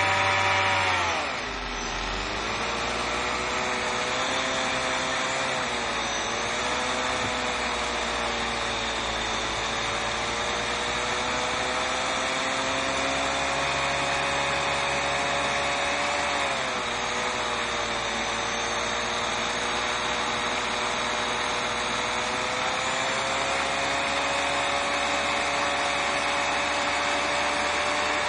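Salvaged Bosch 120 A car alternator run as a brushless motor from a hobby RC speed controller, giving a steady electric whine. Its pitch drops sharply about a second in as the motor slows, then holds with a couple of brief dips and a slight rise later on.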